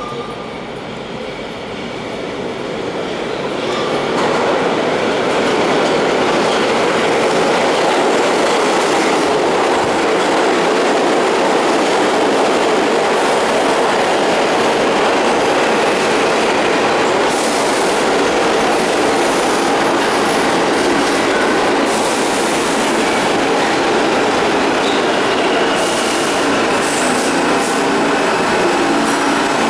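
Pullman-Standard R46 subway train pulling into an underground station. The rumble of its wheels on the rails swells over the first few seconds and then holds loud and steady, with wheel squeal and clickety-clack over the rail joints.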